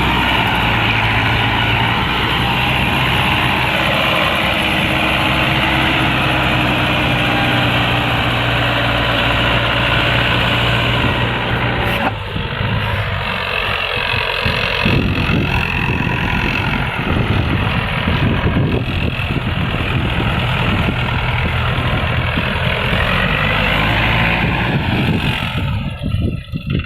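Tractor's diesel engine running steadily, its note changing abruptly about halfway through to a rougher, more uneven sound.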